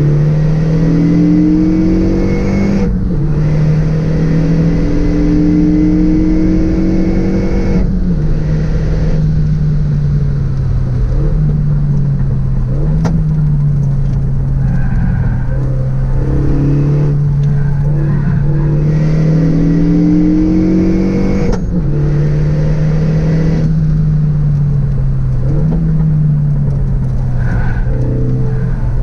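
Renault Megane RS 265's turbocharged 2.0-litre four-cylinder engine pulling hard under load on track. Its pitch climbs slowly, then breaks and drops at gear changes about three times, with a few shorter lifts and blips in between.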